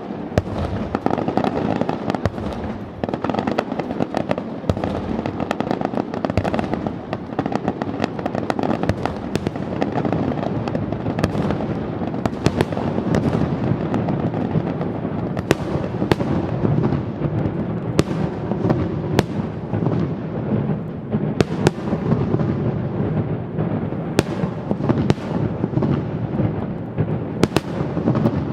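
Fireworks display going off in a dense, unbroken barrage: continuous crackling with many sharp bangs, several a second.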